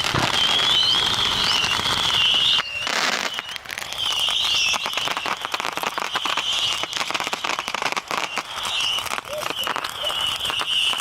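Bonfire of fir Christmas trees stuffed with fireworks, with dense crackling and popping throughout. A wavering high whistle comes and goes over it, and the sound drops out briefly a little over two and a half seconds in.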